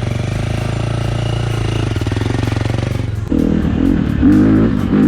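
Dirt bike engine running at a steady speed, then from about three seconds in revving up and down, louder, as the bike gets under way.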